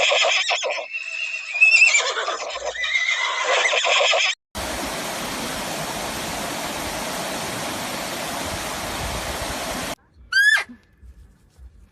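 Farm animal sounds cut together: a long, wavering, noisy animal call for about four seconds, then after an abrupt cut a steady hiss for about five seconds, then a short high call near the end.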